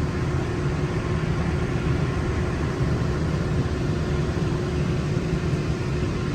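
Walt Disney World Mark VI monorail running along the beamway, heard from inside the passenger cabin: a steady low rumble with a faint steady whine that fades out near the end.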